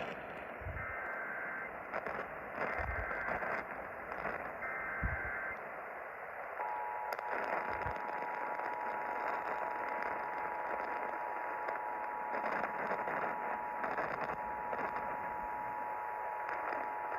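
Emergency Alert System activation received on AM radio: three short bursts of warbling digital header data, then from about six and a half seconds in the steady two-tone attention signal, all over a constant hiss of AM static. Together they signal a tornado warning about to be read.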